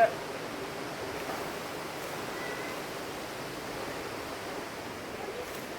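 Honeybee swarm buzzing in a steady, dense hum, the bees disturbed and taking to the air after being knocked off their branch into a tub.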